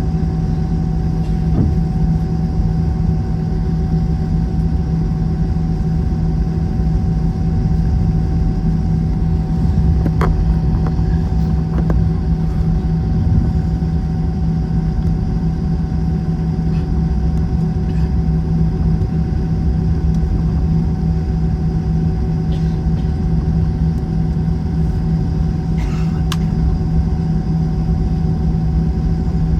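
Steady cabin drone of an Airbus A321 airliner, its jet engines running: a deep rumble with a constant hum that holds an even level, and a few faint clicks about ten seconds in and again near the end.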